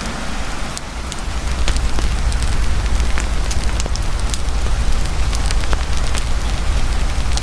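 Heavy rain falling steadily, mixed with a campfire crackling and popping in scattered sharp snaps, over a low steady rumble.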